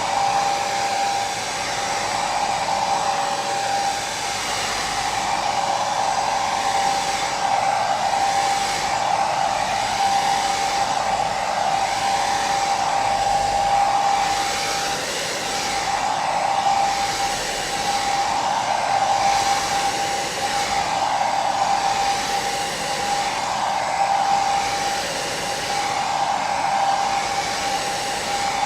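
Hair dryer running steadily: an even rush of blown air with a constant motor whine, swelling and easing gently about every two seconds.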